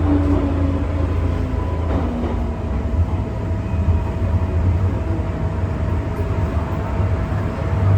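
MTR Tsuen Wan Line M-Train running between stations: a steady low rumble of the wheels on the track, with motor tones above it. One faint whine falls slightly in pitch over the first couple of seconds.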